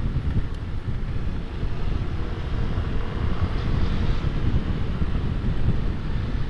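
Wind noise buffeting a microphone inside a motorcycle helmet while riding: a loud, uneven low rumble that never lets up. The rider suspects an air leak on the right side of the helmet.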